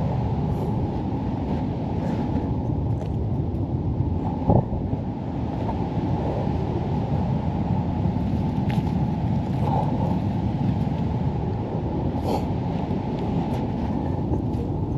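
Steady low rumble of wind buffeting the microphone, with a few short sharp clicks about four, nine and twelve seconds in.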